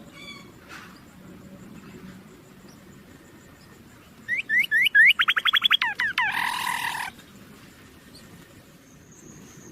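A bird calling: a few quick upward chirps about four seconds in, then a fast trill of falling whistled notes, ending in a short harsh raspy call.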